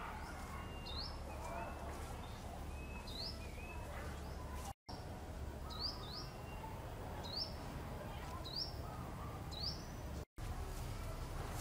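Small birds calling: a short rising chirp repeated about once a second, with a few lower whistled notes in the first few seconds, over a steady low rumble. The sound cuts out briefly twice.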